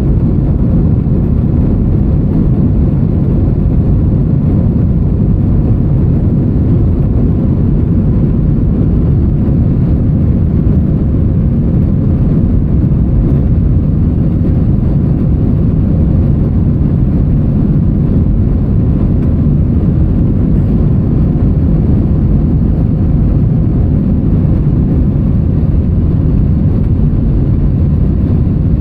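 Steady low roar inside the cabin of an Airbus A321-200 in flight: jet engine and airflow noise, with a faint steady hum over it.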